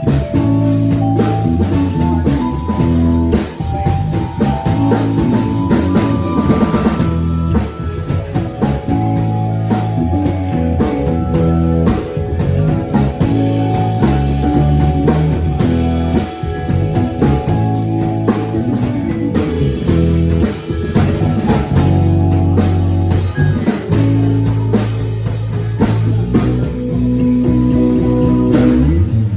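Rock band music with guitar, bass and drum kit playing.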